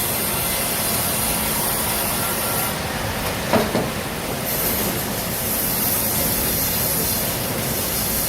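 Sawmill head rig running: steady loud mechanical noise with a high hiss, and a sharp knock about three and a half seconds in.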